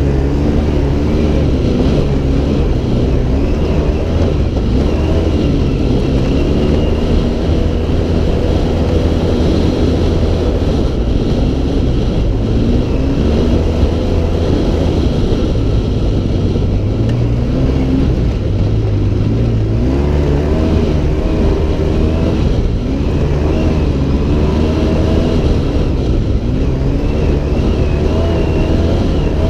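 Engine of an off-road vehicle being driven hard, its pitch rising and falling again and again as the throttle opens and closes and gears change, over a constant low rumble.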